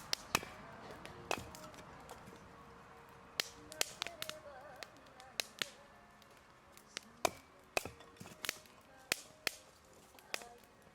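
Burning firewood crackling, with sharp, irregular pops and snaps.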